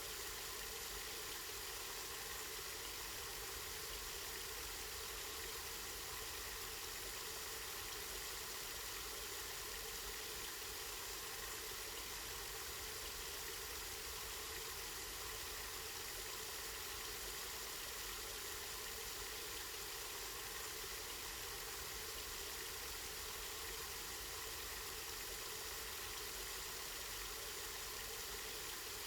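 Spring water flowing steadily: a continuous, even rush of running water.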